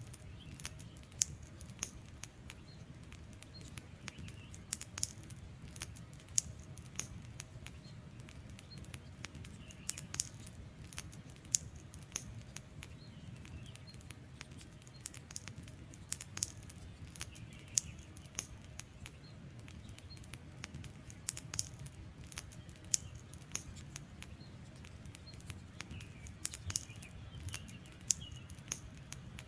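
Wood fire crackling, with frequent irregular sharp pops over a low steady rumble of burning. Faint bird chirps come through a few times.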